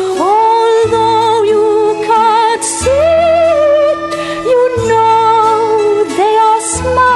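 Music: a high voice sings a slow melody with vibrato over long held accompaniment notes.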